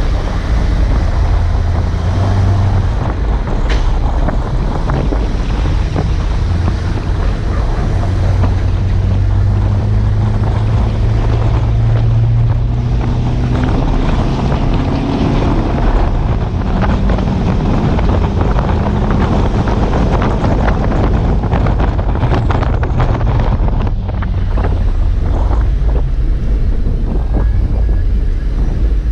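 Heavy work truck's engine running steadily under way, a low rumble whose pitch drifts slightly, with wind buffeting the microphone.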